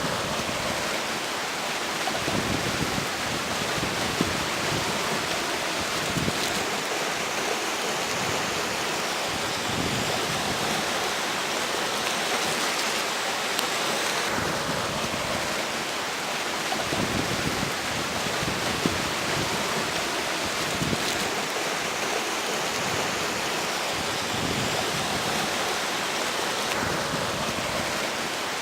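A river flowing steadily, with strong gusts of wind that rumble on the microphone every few seconds.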